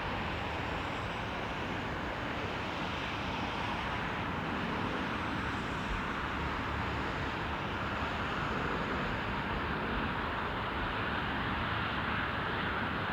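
Steady rushing noise of a distant passenger jet, with a faint high whine that slowly shifts in pitch and grows a little louder near the end.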